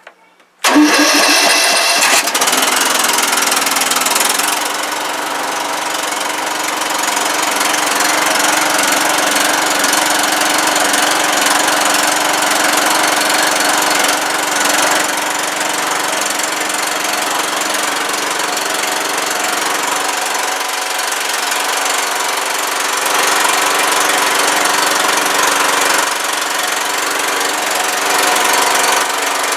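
Old riding lawnmower's engine starting on the key about half a second in, its pitch rising as it revs up, then running steadily.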